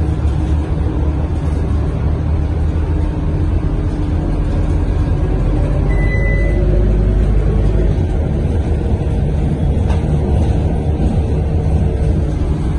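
Scania K230UB bus's diesel engine running under way, with heavy low road rumble, heard from inside the cabin. A short high beep sounds once about six seconds in.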